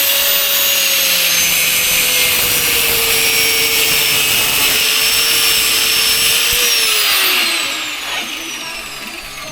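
Handheld power tool running at full speed, cutting into a rubber exhaust hanger that has a metal strap running through it. It winds down about seven seconds in, its pitch falling.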